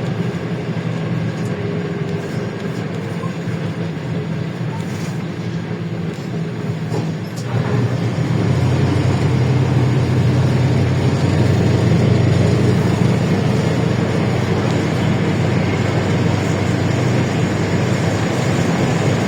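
Cabin sound of a LiAZ-677M city bus under way: its V8 petrol engine runs steadily under road and body noise. About seven seconds in, the engine note drops in pitch and grows louder.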